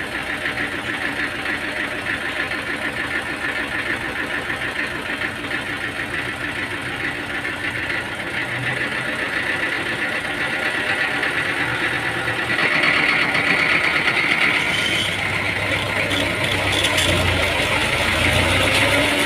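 Machinery engine running steadily with a fast even pulse, getting louder about two-thirds of the way through.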